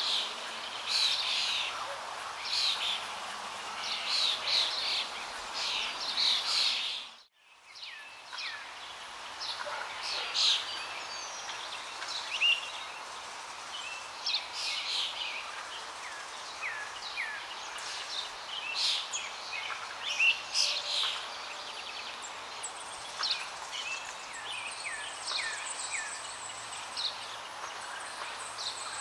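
Small birds chirping, many short high calls in quick succession with some quick falling notes. All sound cuts out for a moment about seven seconds in, then the chirping resumes.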